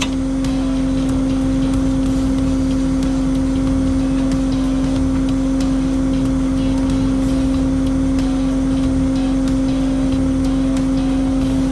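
Tow truck's PTO-driven winch spooling a new cable onto its drum, the engine running under load with a steady, unchanging whine and faint ticking.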